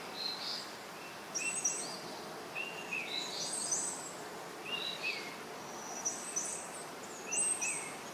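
Birds chirping over a steady hiss of outdoor ambience: clusters of short high notes, some sliding down in pitch, repeating every second or so.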